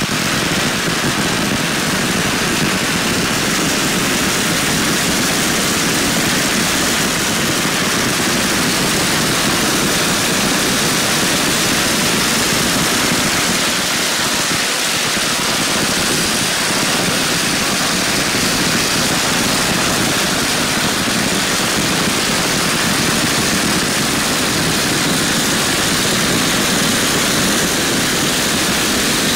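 Long strings of firecrackers going off in one unbroken, dense crackle, loud and steady throughout.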